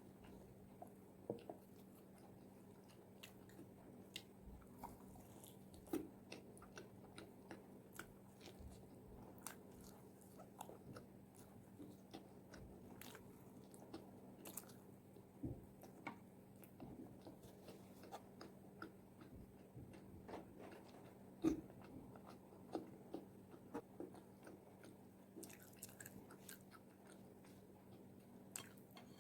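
Faint, close-miked biting and chewing of fried chicken wings: scattered crisp crunches and crackles of the fried skin, the loudest about three-quarters through, over a steady low hum.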